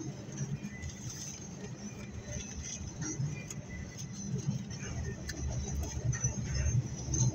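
Double-stack container well cars of a freight train rolling past close by: a steady low rumble of steel wheels on rail with light clicking, a little louder in the second half.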